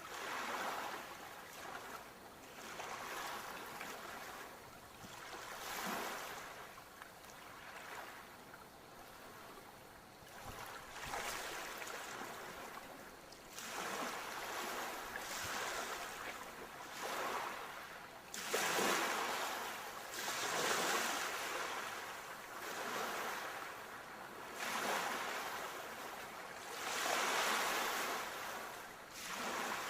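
Sea waves breaking and washing on the shore, each swell rising and falling every two to three seconds, with the biggest breaks in the second half.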